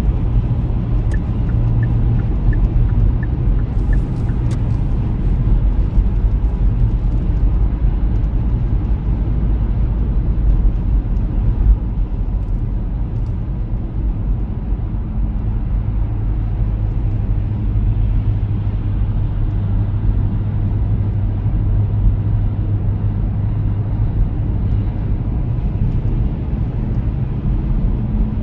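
Car driving on a highway: a steady low road-and-engine rumble throughout. A short run of light, evenly spaced ticks comes near the start, and a few sharp clicks follow about four seconds in.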